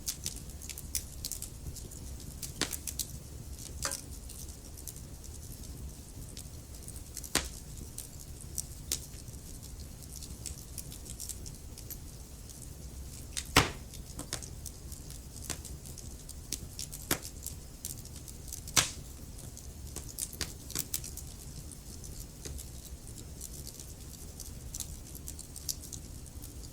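Wood fire crackling in a fireplace: irregular sharp pops and snaps over a steady low rumble of burning, with two louder pops about halfway through and a few seconds later.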